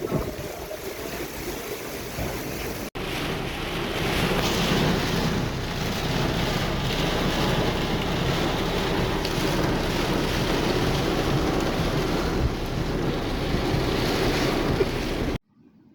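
Heavy rain pouring in strong gusting wind, with wind buffeting the microphone and a low rumble underneath. It breaks off for an instant about three seconds in and cuts off abruptly near the end.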